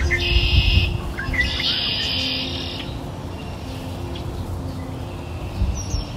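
Birds chirping: two bursts of rapid, high trilling in the first three seconds, then fainter scattered calls, over soft held low tones.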